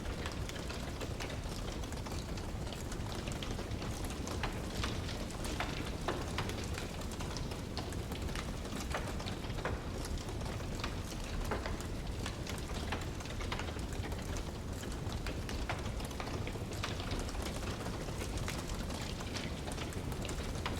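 Wood fire crackling: frequent sharp, irregular pops and snaps over a steady low rushing noise.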